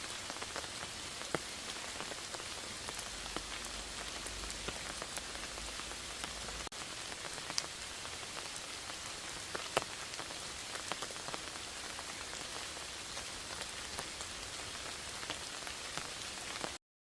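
Steady rain falling, an even hiss dotted with the ticks of single larger drops. It cuts off suddenly near the end.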